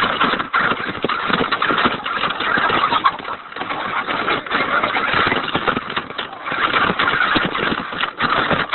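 Radio-controlled Hummer truck driving, its motor and drivetrain running continuously with a few brief dips as the throttle eases off.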